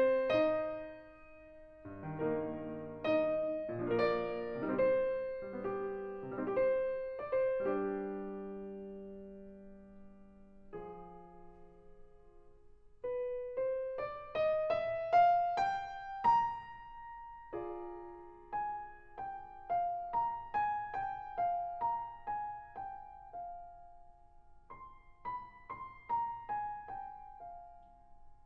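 Solo classical piano playing. A phrase dies away on held low notes about a third of the way through, then a rising line of notes starts the music up again.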